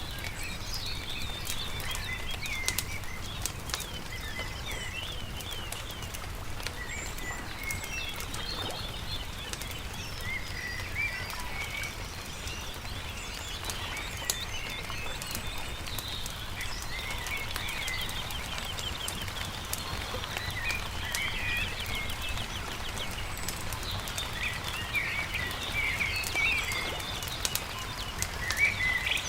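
Songbirds chirping and twittering over a crackling campfire, with a steady low rumble underneath.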